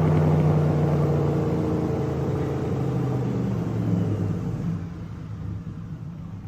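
Chevrolet engine in a 1930 Ford Model A hot rod winding down after a dyno pull, its pitch slowly falling as the sound fades away.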